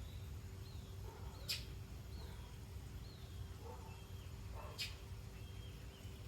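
Faint bird chirps: several short, high, falling notes, with two sharp clicks, one about a second and a half in and one near five seconds, over a low steady rumble.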